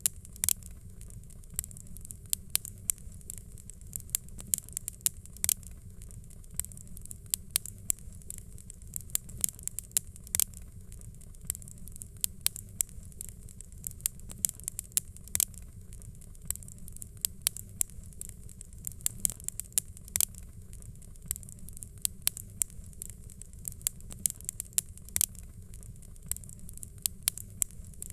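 Fireplace crackling: irregular sharp pops and snaps, several a second, over a steady low rumble and hiss of burning.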